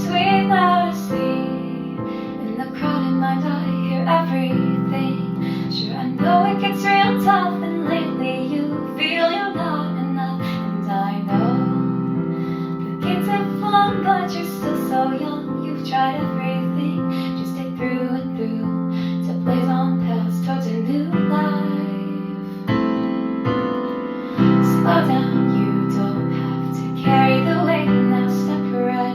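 Music: a woman singing over held keyboard chords that change every couple of seconds, with guitar.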